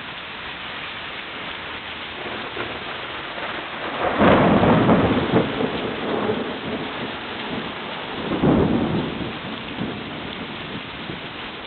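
Heavy rain pouring steadily, with two loud surges of deep noise, one about four seconds in lasting over a second and a shorter one about eight and a half seconds in.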